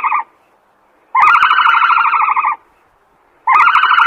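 A repeated animal call: a buzzy, rapidly pulsing trill at a steady pitch, about a second and a half long, given again every two seconds or so with the same shape each time.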